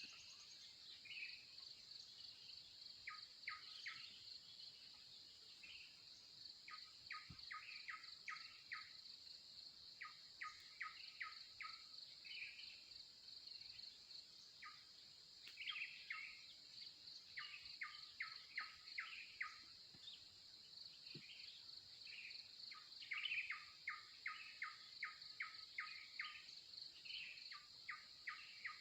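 Faint natural ambience: a steady, high insect chorus, with a bird calling in repeated runs of about five to eight quick short notes every few seconds, and other single chirps in between.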